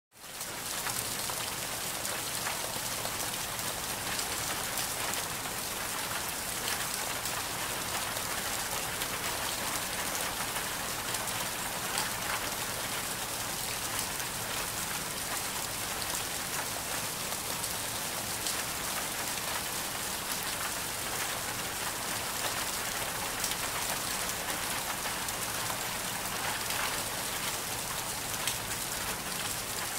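Ambient rain recording: steady, dense rainfall with a constant patter of drops, swelling up from silence in the first half second.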